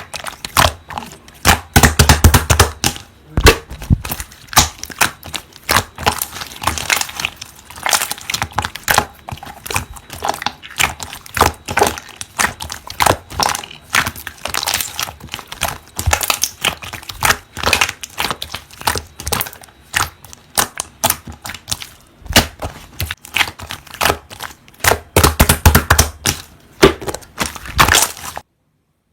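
Slime being squeezed and pressed by hand: a dense, irregular run of clicks and crackles, with louder clusters near the start and near the end, cutting off suddenly just before the end.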